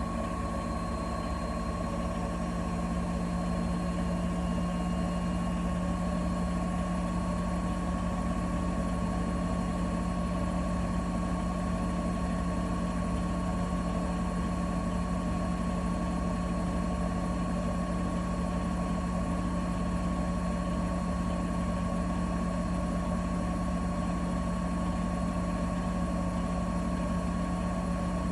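Bosch Serie 4 WAK20260TR front-loading washing machine running steadily mid-programme: a continuous motor hum with a thin whine above it, with no pauses, getting slightly louder about three seconds in.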